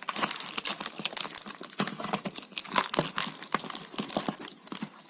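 Sellotape and a plastic rain-gauge body being handled: dense, irregular crinkling and crackling.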